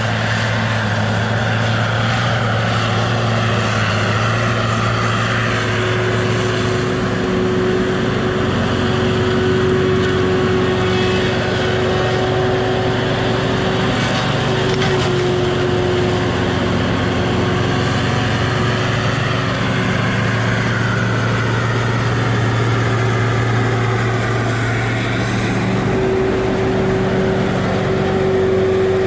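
Tigercat feller buncher's diesel engine and hydraulics running under work, heard steadily, with a thin steady whine over the engine drone; the engine note dips and comes back up partway through as the machine works.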